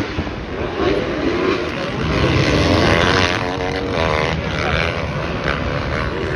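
Several dirt bike engines running and revving on the race track, their pitches rising and falling and overlapping.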